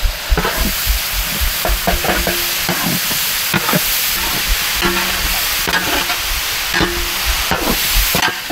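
Fried chicken sizzling in hot sesame oil as it is stirred and tossed with garlic, chilli and tomato sauce in a large open pan. Under the steady sizzle, a ladle scrapes the pan in repeated, uneven strokes.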